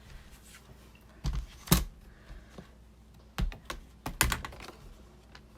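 Scattered sharp clicks and knocks of hard craft tools and cardstock being handled on a tabletop, irregular like light typing, the loudest two clacks about a second and a half and four seconds in.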